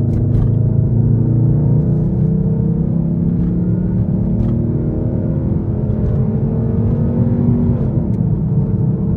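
Straight-piped Infiniti M56's 5.6-litre V8 exhaust pulling through a gear, its pitch climbing slowly, then dropping about eight seconds in as it shifts up.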